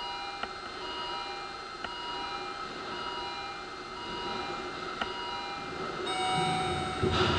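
Railway station sounds: short electronic tones at several pitches come and go with an occasional sharp tick, then from about six seconds in a Kintetsu train's low rumble builds up and grows louder.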